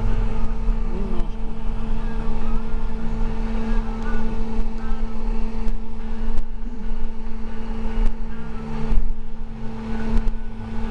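Interior sound of a moving school bus: a steady engine drone with a low road rumble, and a few short rattles and knocks from the bus body.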